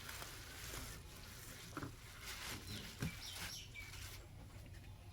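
Faint bird chirps over quiet background ambience, with a few soft clicks.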